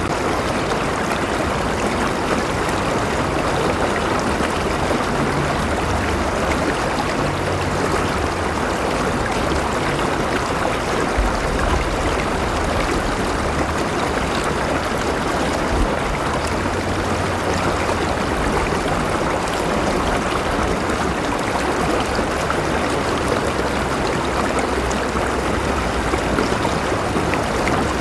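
Steady rush of a flowing river, water running and burbling over rocks without a break, with a low rumble that comes and goes underneath.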